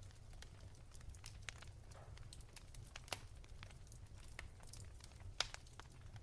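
Wood fire crackling softly, with scattered sharp pops, the loudest about three seconds in and again near the end, over a low steady rumble.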